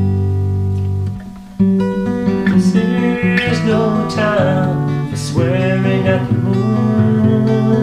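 Acoustic guitar strumming chords in a song's instrumental intro, with a brief drop in level a little over a second in before the chords resume.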